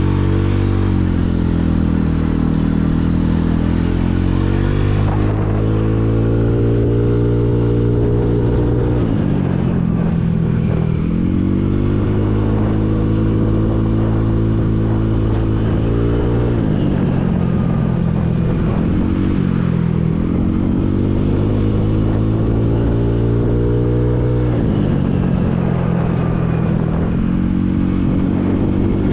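Motorcycle engine running under way, its pitch climbing and dropping several times as the rider opens and closes the throttle through the gears, holding steady in between.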